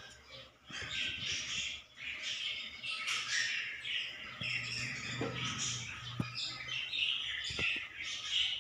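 Small pet birds chirping and squawking continuously, over a low steady hum, with a few light clicks.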